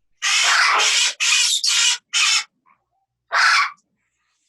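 Parrot squawking: four harsh calls in quick succession, then one more about a second later.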